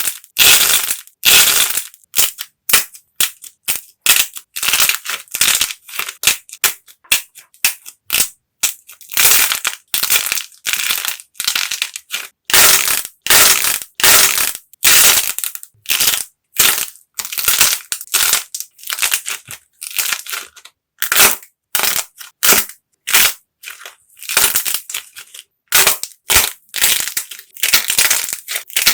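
Dried clay being cracked and crushed: an irregular series of crisp crunches and cracks, each a fraction of a second long, with brief pauses between them.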